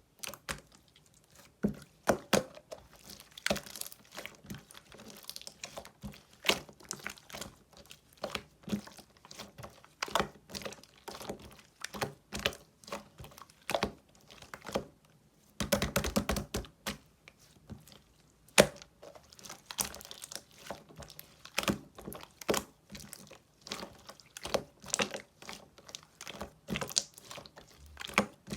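Clear slime being squeezed, pressed and stretched by hand, giving irregular sharp wet clicks and pops. There is a denser run of popping about halfway through.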